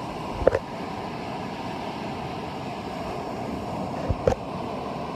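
Steady rush of wind and ocean surf on a phone microphone, with two brief handling knocks, one about half a second in and a double one about four seconds in.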